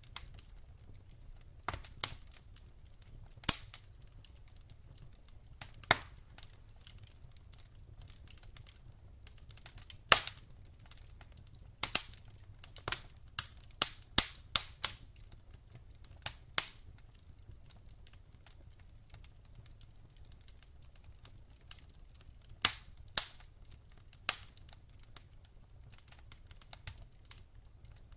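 Campfire wood crackling: irregular sharp pops and snaps, some in quick clusters, over a faint low rumble of the fire.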